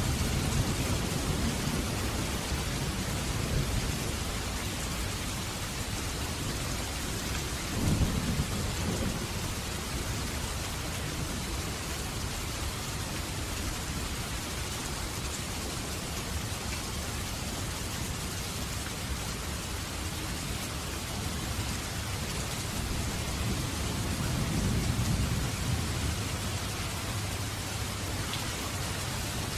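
Steady hiss of heavy rain, with low rumbles swelling near the start, about eight seconds in, and again late on.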